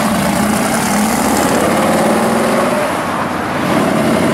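Classic muscle car's engine running with a steady rumble as the car pulls out and drives away, dipping briefly about three seconds in and swelling again near the end.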